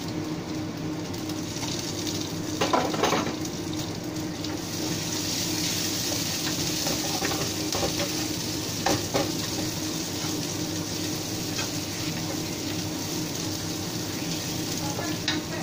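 Minced garlic and red onion frying and sizzling in a nonstick wok, with the hiss growing stronger about five seconds in. A wooden spatula stirs them and scrapes and knocks against the pan a few times, around three seconds in and again around nine seconds.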